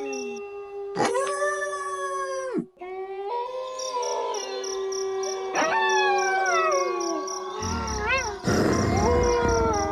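Pack of wolves howling in chorus: several long howls overlap, most sliding down in pitch while one holds a steady note, with a quavering howl about eight seconds in.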